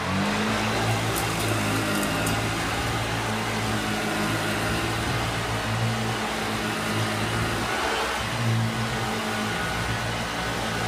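1971 Hoover Junior Dirt Searcher upright vacuum cleaner, a dirty-fan soft-bag machine, running steadily with a motor hum and airflow hiss as it cleans dust off a carpet. The motor note dips briefly about eight seconds in.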